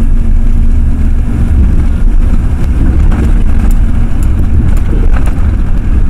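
Ford F-350 pickup truck driving, heard from inside the cab as a steady low rumble of engine and road noise, with a few faint clicks.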